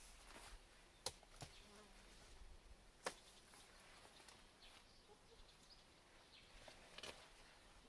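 Near silence, broken by a few faint, sharp clicks or taps, the clearest about a second in and again about three seconds in.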